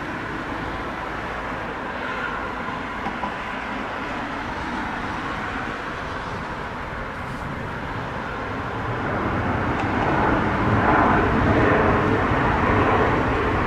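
Boeing 737-800 on its landing, its CFM56 jet engines and rolling gear making a steady rumble that grows louder about nine seconds in.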